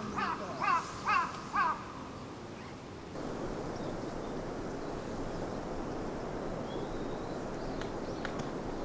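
A crow cawing in a quick series, four caws about half a second apart that stop near two seconds in. After that a steady rushing noise continues.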